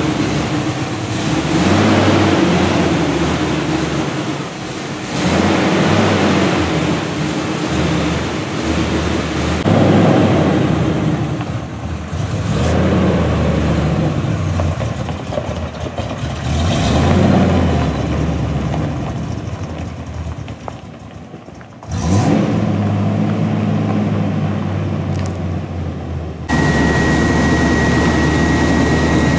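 1977 Corvette's 350 small-block V8 running and revving, its pitch rising and falling again and again as the car pulls away and drives through the gears of its new 5-speed manual. In the last few seconds it is heard from inside the cabin as a steady drone, with a steady high whine on top.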